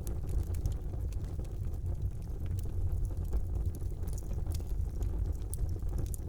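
Fire burning in a fireplace: a steady low rumble of the flames under frequent small, sharp crackles and pops.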